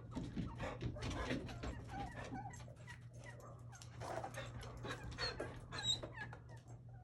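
Australian cattle dogs giving a run of short, excited whines and yips, rising and falling in pitch, over a steady low hum.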